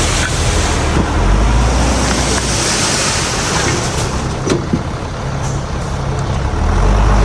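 Heavy diesel earthmoving machinery running with a low, steady rumble that swells near the end. A broad hiss comes about three seconds in, and two short knocks follow about four and a half seconds in.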